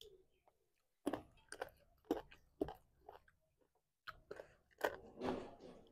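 Close-up chewing and wet mouth smacks of people eating rice and curry by hand, coming in two spells of quick clicks with a short lull between.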